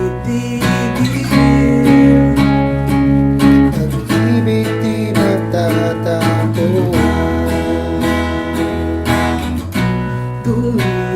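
Music: strummed acoustic guitar chords with a gliding melody line over them, an instrumental passage of a Tagalog love song without sung words.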